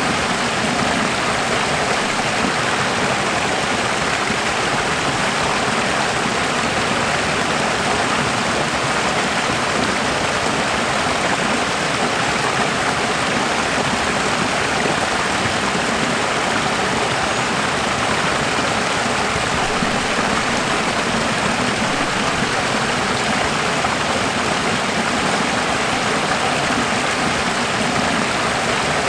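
Running water: a steady, even rush like a stream or small waterfall.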